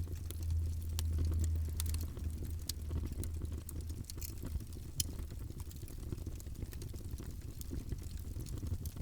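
Wood fire in a fireplace crackling: scattered sharp pops and snaps over a steady low rumble, which is louder for the first two seconds or so.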